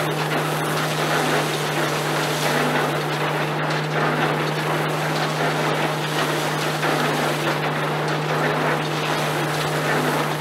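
1936 Ransomes, Sims & Jefferies threshing machine running steadily, belt-driven by a tractor, with a constant hum from the drum and engine under a continuous rush of machinery noise.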